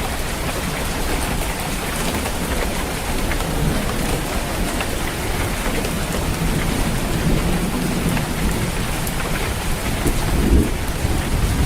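Steady heavy rain drumming on a tiled roof, with low rumbling thunder underneath that swells a little louder near the end.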